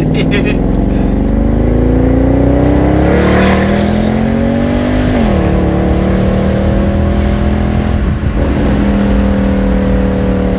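Mercedes-Benz C63 AMG (W204) 6.2-litre V8 accelerating, its pitch climbing steadily for about five seconds, then dropping sharply at an upshift and holding a steady cruise.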